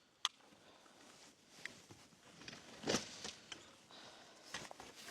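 Handling noise of gear being packed up in a hurry: scattered clicks and rustles, with a sharp click near the start and a louder dull thump about three seconds in.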